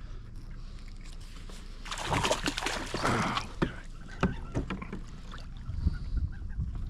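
Sounds of moving about in a kayak: a rushing, splash-like noise lasting a second or two, then a run of scattered light knocks and clunks.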